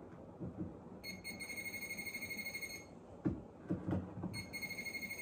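Handheld metal detector sounding its alert: a high, fast-pulsing electronic tone, on for about two seconds, off, then back on near the end, picking up metal such as nails or a pipe. A few dull knocks from handling in the gap.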